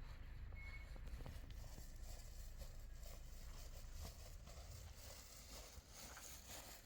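Faint outdoor ambience: a low steady rumble with a few light, scattered ticks and taps.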